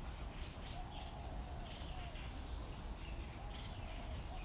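Small birds chirping and tweeting, with one thin high whistle about three and a half seconds in, over a steady low background rumble.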